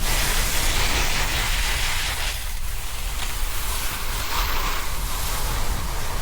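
Snowboard sliding over snow, its base and edges hissing and scraping in swells that rise and fall with the turns, mixed with wind buffeting the camera's microphone.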